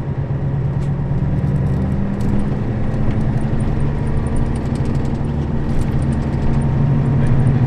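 Nissan Diesel KL-RA552RBN route bus running, heard inside the cabin: a steady diesel engine drone that grows a little louder near the end.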